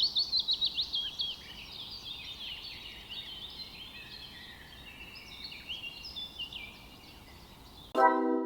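Small birds calling: a fast run of high, falling chirps in the first second or so, then a looser chatter of varied high notes that fades out. A music chord comes in near the end.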